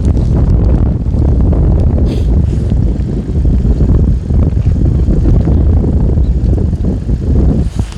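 Strong gusty wind buffeting the microphone in a snowstorm: a loud, uneven low rumble, with brief hissing gusts about two seconds in and again near the end.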